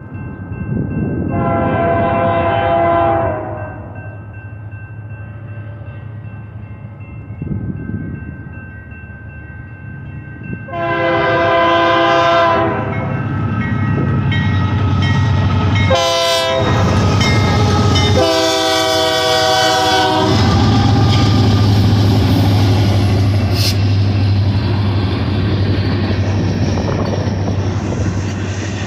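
Union Pacific diesel locomotive horn sounding two long blasts, a short one and a final long one, the standard signal for a grade crossing, over the low rumble of the locomotive engines. The rumble grows louder as the train draws level, and the train keeps rolling past after the last blast.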